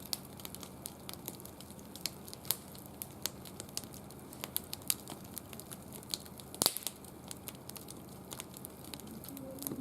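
Wood fire crackling, with irregular sharp pops and one louder snap a little under seven seconds in.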